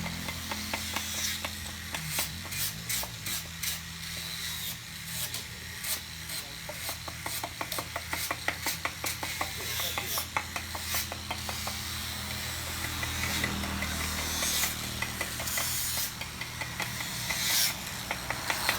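Rapid clicking and scraping of work on wood over a steady low hum, the clicks thickest in the middle and a hiss swelling near the end.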